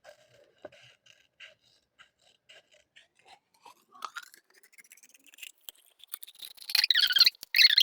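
Scissors cutting out a paper shape: scattered small snips, then louder rustling and scraping twice near the end.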